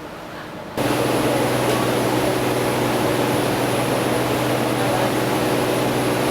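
A steady engine hum under a loud rushing noise, cutting in suddenly about a second in.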